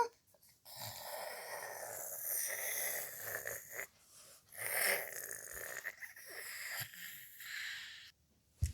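A person making breathy, wheezing noises in three long stretches, the first about three seconds long, then a short low thump near the end.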